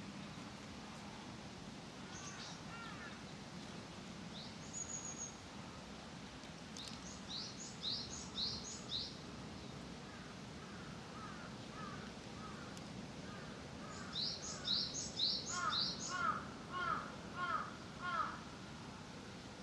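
Wild birds singing and calling: quick high, falling notes in two bouts of four or five, and short runs of lower repeated calls, the loudest about three-quarters of the way through, over a steady faint low hum.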